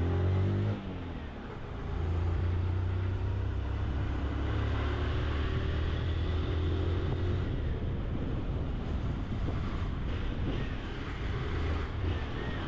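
Honda CG 160 Titan motorcycle's single-cylinder four-stroke engine running on the move. About a second in, the engine note falls and dips briefly, then picks up again and holds steady.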